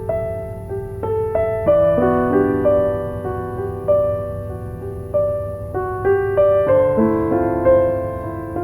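Soft, slow piano music: single held notes and gentle chords forming a calm melody, with a new phrase starting about two seconds in.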